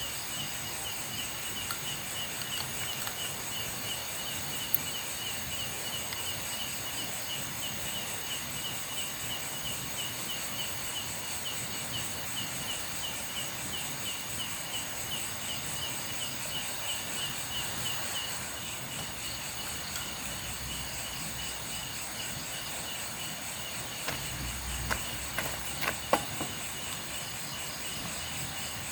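Night insect chorus: a high chirp pulsing several times a second over a steady higher insect hiss. Near the end come a few sharp clicks.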